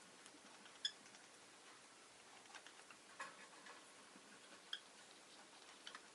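Quiet room with a rosy-faced lovebird making scattered small clicks and taps, and two brief high chirps, one about a second in and one near the end.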